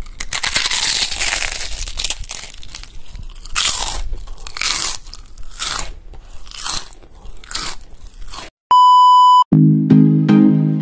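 Loud crunching bites and chewing of crisp food, a crunch about every second. Near the end this cuts to a single steady beep lasting under a second, followed by music with held notes.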